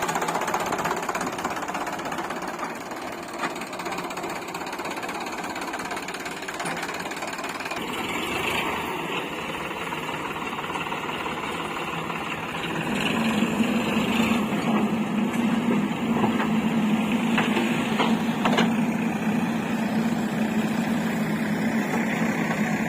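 Diesel engines of a JCB 3DX backhoe loader and tractors running while mud is loaded. About halfway through a steady low engine note sets in and the sound grows louder.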